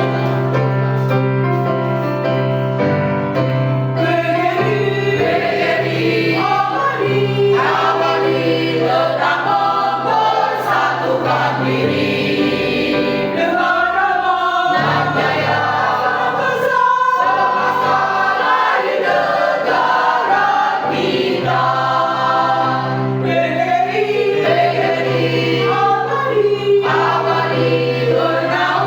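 Mixed choir singing a march in several voice parts over a steady sustained accompaniment.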